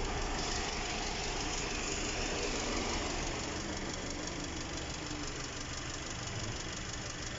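GAC GS4 engine idling steadily, heard up close under the open hood, with the electric radiator cooling fan running as an even rush of air.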